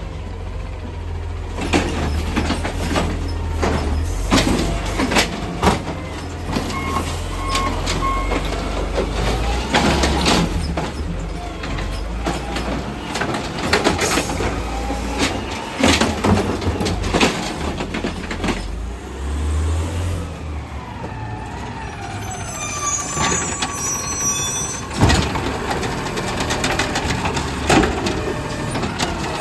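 Garbage truck collecting trash: the diesel engine runs with a low rumble under repeated loud bangs and clatters as trash cans are dumped and slammed against the hopper. There is hydraulic whining and squealing in the second half.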